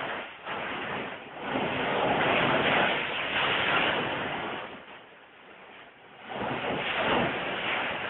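Rushing floodwater, a steady roar that swells and fades, drops low about five seconds in and builds again a second later.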